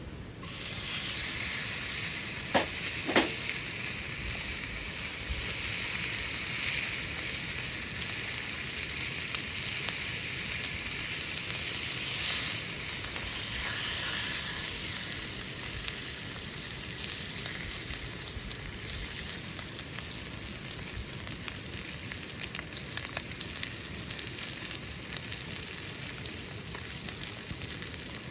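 Wagyu beef steak searing over a wood fire: a loud, steady sizzle of fat and juices that starts abruptly just after the start and keeps up evenly.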